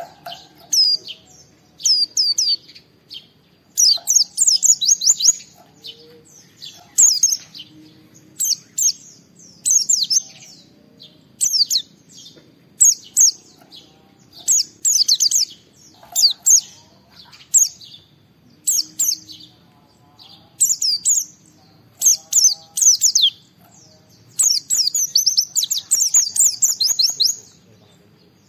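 White-eye (pleci) singing loudly in its full 'gacor' style: short phrases of rapid, high, falling chirps and trills, coming about once a second, with a longer unbroken run of song near the end.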